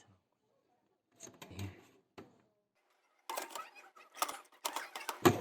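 Clicks and a clattering rattle of laptop parts being handled on a workbench, starting about three seconds in and growing louder, after a lone click and a brief low murmur.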